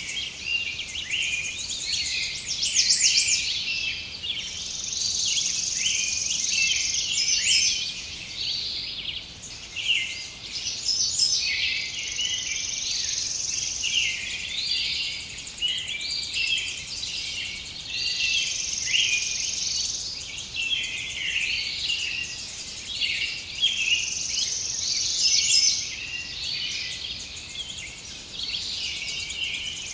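A dense chorus of many songbirds chirping and calling at once, with a high, steady buzz that fades in and out about every six seconds.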